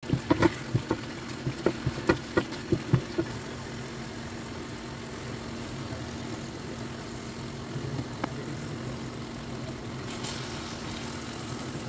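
Thick spice paste popping and spattering as it fries in the pan for the first three seconds, over a steady low hum. About ten seconds in there is a brief hiss as a chicken leg is laid into the hot pan.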